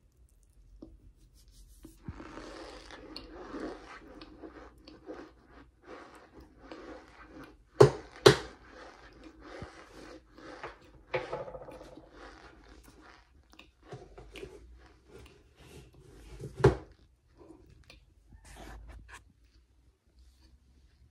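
Raw cornstarch being chewed and mashed in the mouth close to the microphone, with wet mouth noises. A few loud sharp smacks stand out, a pair about eight seconds in and another near the end of the chewing, after which it goes quieter.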